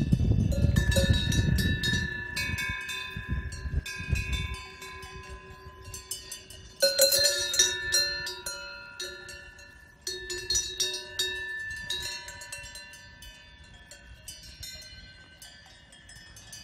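Several cowbells of different pitches clanking irregularly as grazing cows move, with louder bursts of clanking about seven and ten seconds in. A low rumble runs under the first four seconds or so.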